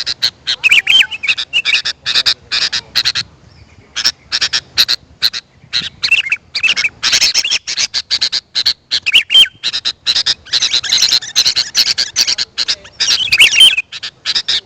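Sooty-headed bulbul (kutilang) calling: a fast, continuous run of short chattering notes broken by brief whistled warbles, with a pause of about a second near four seconds in.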